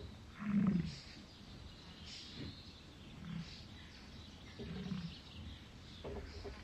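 American bison grunting: a handful of short, deep grunts, the first and loudest about half a second in, then several quieter ones spread through the rest.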